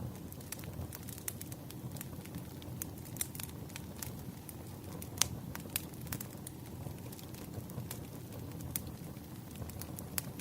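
Wood campfire burning: a steady low rush of flame with irregular sharp crackles and pops from the burning wood, one louder pop about halfway through.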